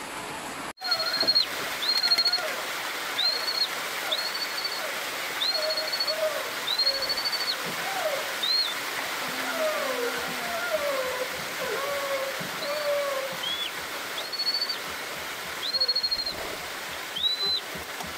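A bird calling in a regular series of short, high whistled notes, about one a second, each dropping in pitch at its end, over a steady hiss; fainter, lower falling calls come in the middle.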